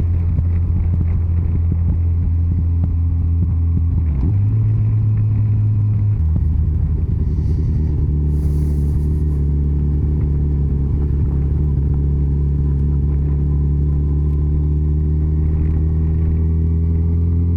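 Yamaha FJR1300's inline-four engine running steadily at road speed. Its pitch steps up about four seconds in, drops back about two seconds later, and climbs slowly near the end.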